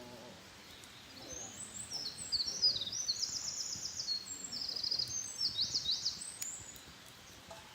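A wild songbird singing one long, fast, high song of rapid trills and runs of falling notes, lasting about five seconds.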